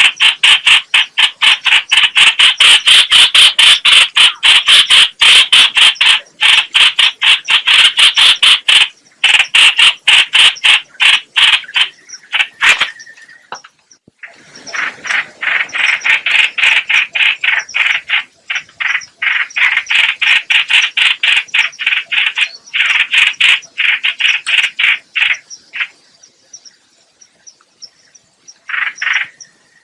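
Black-collared starling (called trao trảo, chao chảo or hoành hoạch) giving loud, harsh calls in rapid runs of several notes a second. There are two short breaks, near the middle and shortly before the end.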